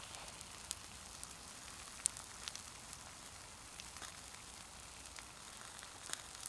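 An open wood fire crackling while food sizzles on a hot rock slate: a faint, steady hiss with sharp pops and cracks scattered through, the loudest about two seconds in.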